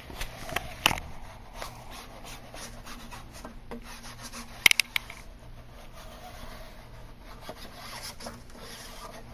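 Adhesive lint roller rolled along a sanded wooden edge, a rubbing crackle with a few sharp clicks, picking up leftover sanding dust before edge banding is applied.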